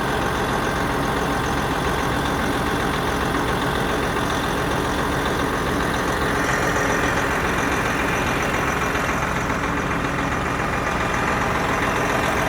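Detroit diesel engine of a Peterbilt 389 glider semi truck idling steadily.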